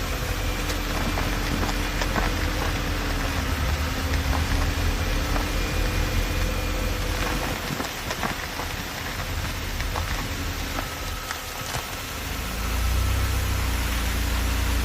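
Car driving over a dirt road: a steady engine note under a low rumble and gritty tyre noise, with scattered small ticks. The rumble grows louder near the end.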